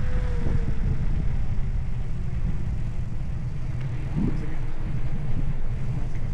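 Wind buffeting the microphone of a camera on a moving bicycle, heard as a steady low rumble. A faint falling tone sounds at the start.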